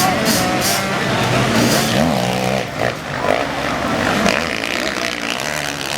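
Motocross dirt bike engines running at race speed, the pitch climbing and dropping as the throttle is worked, with a clear rise and fall about two seconds in.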